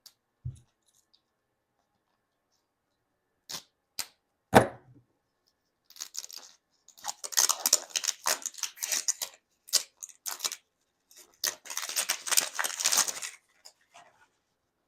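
A few short clicks and knocks, then a small plastic wrapper being torn open and crinkled in several bursts of crackly rustling.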